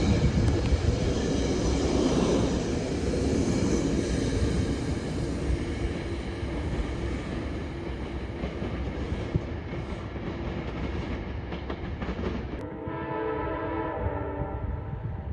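A train passing with steady wheel and rail noise that slowly fades. About three-quarters of the way through the sound changes suddenly and a train horn sounds a steady chord for a couple of seconds.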